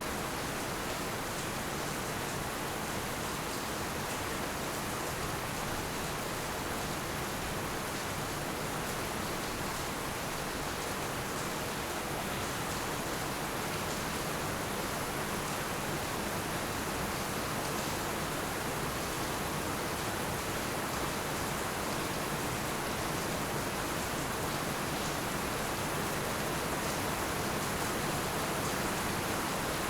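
Heavy rain falling steadily, a dense even hiss with no thunder or distinct drops standing out.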